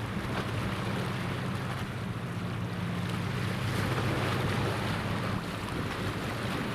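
A boat's engine droning steadily under wind and rushing water. The low hum fades about five and a half seconds in.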